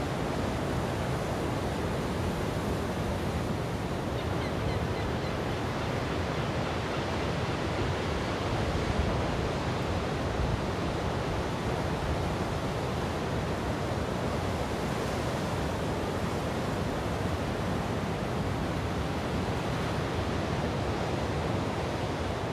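Ocean surf breaking and washing up a sandy beach, a steady wash of waves.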